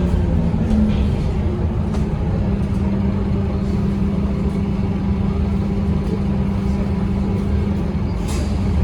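Scania K230UB bus's 8.9-litre Scania DC9 five-cylinder diesel engine running steadily, a low rumble with a constant hum. Faint clicks and rattles sound here and there, with a brief rattle near the end.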